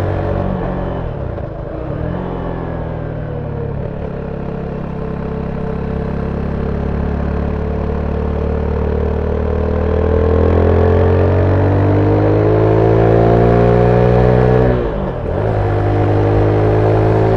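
Zontes 310V motorcycle engine on its stock exhaust, heard from on board while riding. The engine note climbs slowly as the bike accelerates, then dips sharply near the end, a gear change, and pulls on again.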